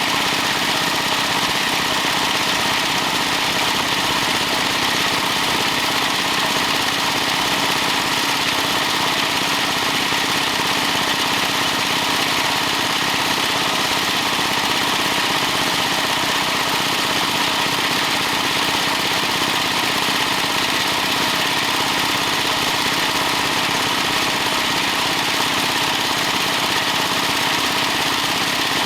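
Stationary engine driving a pump, running steadily at an even speed.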